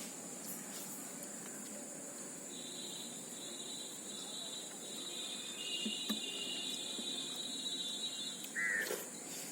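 Outdoor background with a steady high buzz, and a second, higher-pitched buzzing that starts after a couple of seconds and stops shortly before the end. Near the end comes one short, loud call.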